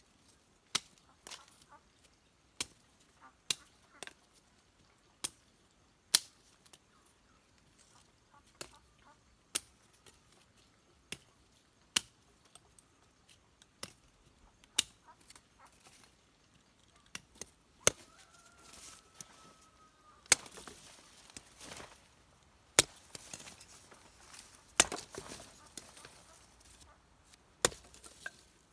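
Repeated sharp chopping strikes of a hand tool, irregular and roughly one a second, with a brief high call about two-thirds of the way through.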